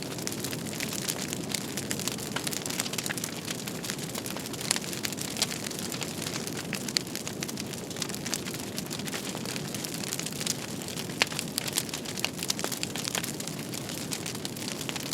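Wood fire crackling steadily, with frequent sharp pops and snaps over a low, even rush of burning.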